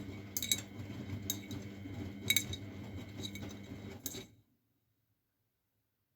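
Miele Novotronic W912 washing machine running: a steady motor hum with irregular sharp clinks. The sound cuts off abruptly about four seconds in.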